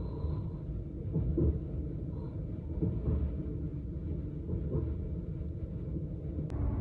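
Steady low rumble of a Class 395 electric train running at speed, heard from inside the carriage, with a few faint knocks. Near the end a sharp click comes, and the rumble turns fuller and louder.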